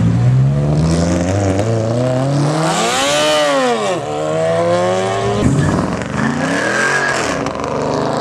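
A car engine revving hard under a pull, its pitch climbing to a peak about three seconds in and then falling away, before it rises again near the end.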